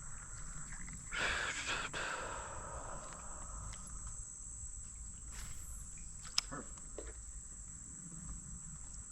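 Insects buzzing in one steady, high-pitched drone. A short rustle or splash comes about a second in, and a sharp click follows later.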